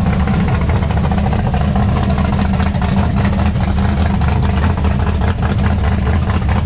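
Car engine running at low revs, a deep steady rumble with no rise or fall in pitch.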